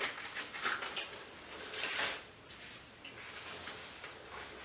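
Light clinks and knocks of small scrap metal parts being handled and sorted, with a louder clack about two seconds in.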